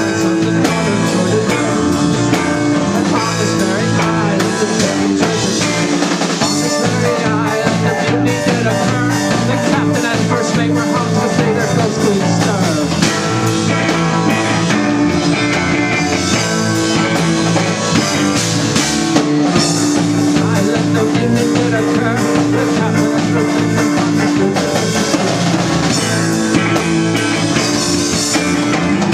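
Rock band playing an instrumental passage: electric guitar, bass and drum kit, with no lead vocal.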